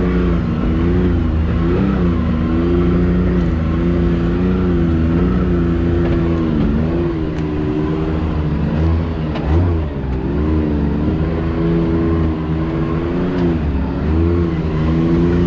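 Can-Am Maverick X3 side-by-side's turbocharged engine running under throttle on a rough trail, its revs holding fairly steady with small rises and dips. A brief low bump about two thirds of the way through.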